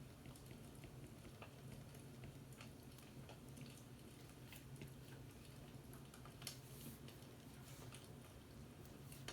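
Faint fireplace crackle: small irregular pops and ticks over a low steady hum.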